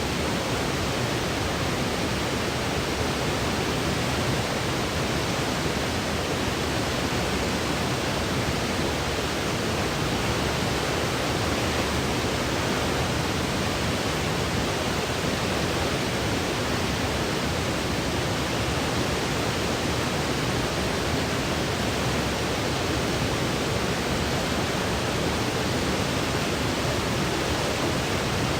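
Steady generated sleep noise: an even, unchanging hiss spread across low and high pitches, with no breaks or events.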